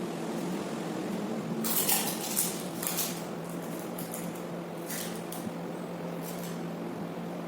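Clear adhesive tape and plastic drinking straws being handled: a cluster of short scratchy rustles and crackles about two seconds in, with a few more near the end, over a steady low hum.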